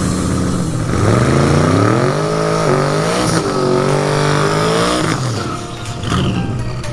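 A car engine under hard acceleration: its pitch climbs, drops sharply at a gear change about three seconds in, climbs again and holds, then falls away near the end.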